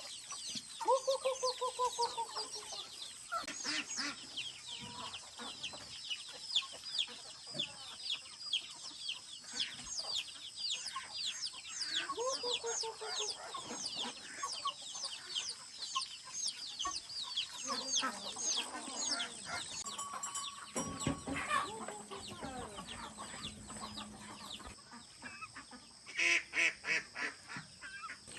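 Chickens clucking, over a steady run of quick, high, falling chirps. A burst of louder, rapid calls comes near the end.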